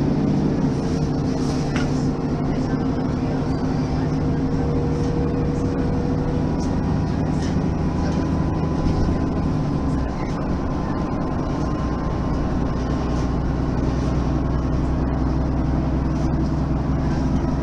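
Mercedes-Benz facelift city bus's diesel engine running steadily, with a thin whine that rises slightly in the second half. The engine note changes with a brief drop in loudness about ten seconds in.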